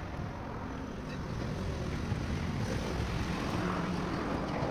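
Car engine running steadily, a low, even rumble.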